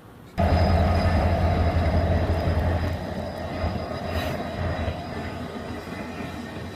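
Train passing: a steady rumble with an even hum above it, starting suddenly about half a second in and easing a little after three seconds.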